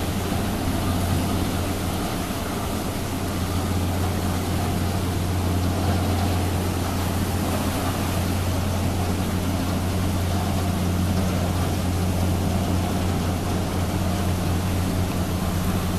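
Queen Beetle high-speed boat's engines running steadily: a constant low hum with a second, higher hum over a broad even hiss.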